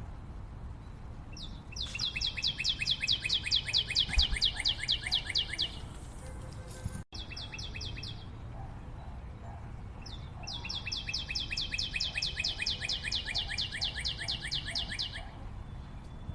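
A forest bird calling in long rapid series of evenly repeated high notes, about seven a second, each series lasting several seconds; two long runs with a short burst between them.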